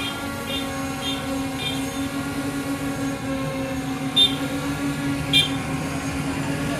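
Airliner engines and cabin droning steadily during landing, a hum of several held tones. Three short high chirps sound in the first two seconds, and two short, sharp, louder clicks or knocks come about a second apart near the middle.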